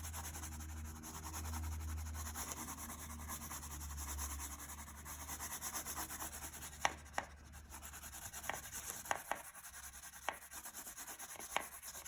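A crayon rubbed back and forth on paper in quick, even strokes, colouring in a large area. About halfway through the rubbing fades and a scatter of light clicks and taps takes over.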